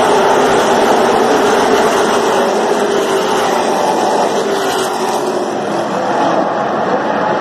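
A pack of NASCAR race trucks' V8 engines running hard together on a restart. It is a loud, steady, dense engine noise with faint pitches drifting up and down.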